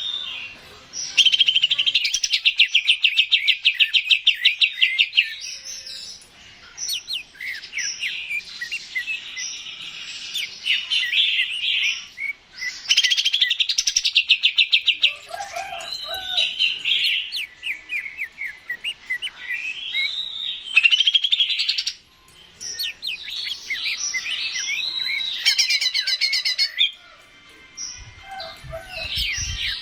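Green leafbird (cucak ijo) singing: long, varied phrases of fast, chattering trills and slurred whistles, broken by short pauses between bursts.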